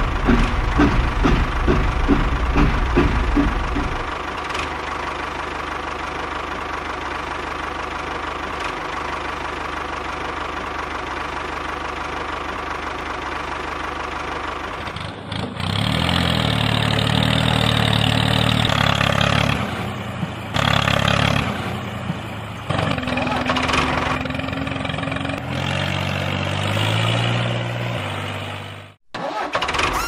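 Tractor engine sound, chugging quickly at first, then running steadily, then from about halfway revving louder and rising and falling in pitch, as if labouring under load, until it cuts off just before the end.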